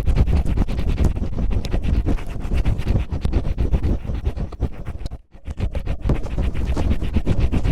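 Cellophane crinkled and rubbed right against the microphone: a dense, fast crackle with a deep rumble underneath. It breaks off for a moment a little after five seconds in, then resumes.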